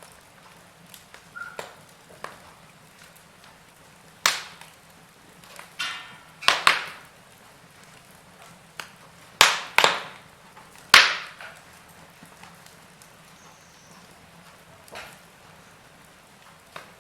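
Logs burning in a fireplace, crackling with scattered sharp pops over a faint steady hiss; the loudest pops come in a cluster a few seconds in.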